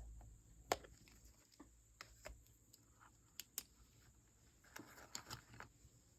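Faint, scattered clicks and light taps of small objects handled on a desk, with a brief soft rustle about five seconds in.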